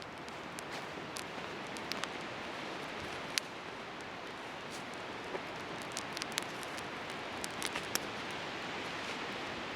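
Wood bonfire crackling, with irregular sharp pops over a steady rushing hiss; one pop about three and a half seconds in stands out as louder.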